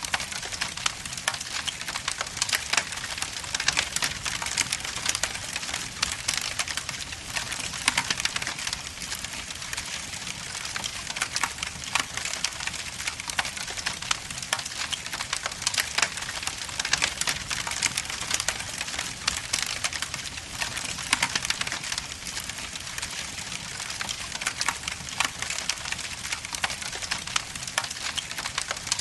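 Wood logs burning in an indoor fireplace: a steady hiss of flame with dense, irregular crackles and pops.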